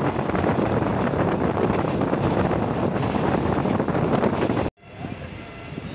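Passenger train running at speed, heard from an open coach window, with heavy wind buffeting on the microphone. The sound cuts off abruptly about four and a half seconds in, then carries on quieter.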